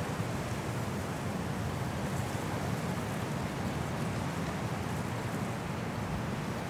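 High wind blowing through trees in a snowstorm: a steady, deep rushing noise.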